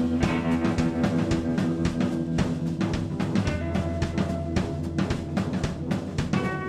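Live electric blues band playing an instrumental passage without vocals: a drum kit keeps a busy beat over bass and keyboard, and higher held notes come in near the end.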